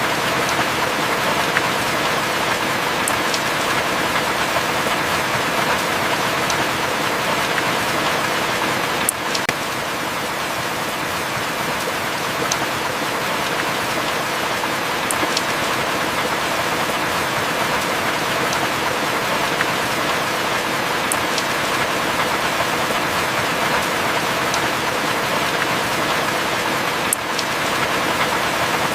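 Steady heavy rain: a dense, even hiss with occasional sharp drip ticks, and no thunder.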